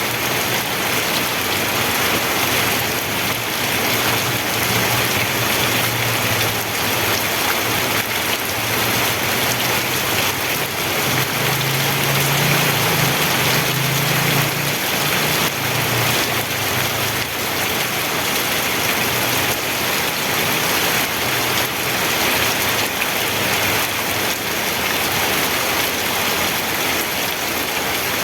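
Steady rain falling, an even hiss of drops. A low rumble swells in the middle and fades out again.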